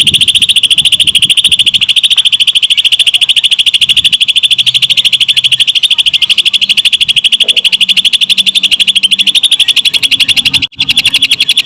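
Cucak ijo (green leafbird) singing a long, unbroken, rapid high-pitched chattering trill in the lovebird-like 'ngetrok' style, with a momentary break near the end.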